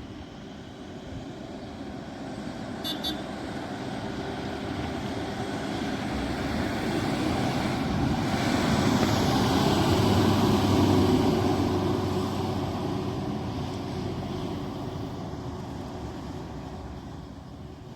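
A heavy road vehicle, a bus or lorry, passing by on the road: its engine and tyre noise grows louder as it approaches, peaks about ten seconds in with a low steady engine note, then fades as it drives away.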